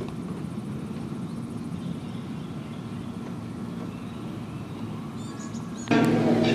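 Outdoor ambience: a steady low rumble with a few faint bird chirps. Near the end it cuts abruptly to a much louder steady hum with clattering.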